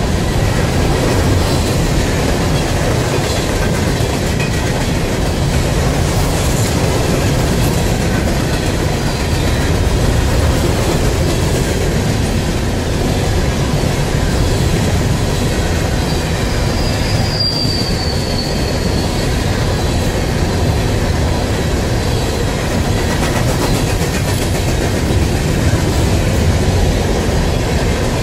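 Empty coal hopper cars of a freight train rolling past close by: a steady rumble and clatter of steel wheels on the rails, with a brief high-pitched wheel squeal a little past the middle.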